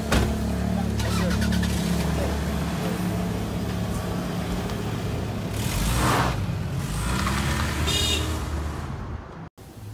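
SUV engine idling, then the vehicle pulling away.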